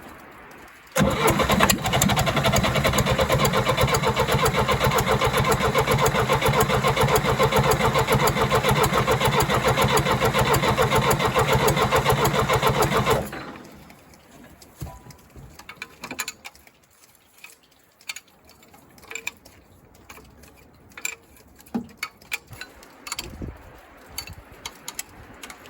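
1963 Case 310F bulldozer's diesel engine being cranked over on the starter with its injector lines cracked open to bleed air from the fuel system. The steady, evenly pulsing cranking starts suddenly about a second in and stops after about twelve seconds, leaving scattered light clicks and knocks.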